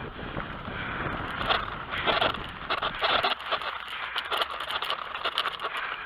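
BMX bike rolling over a loose dirt track, its tyres crunching and crackling over grit, with wind rumbling on the microphone until about halfway through.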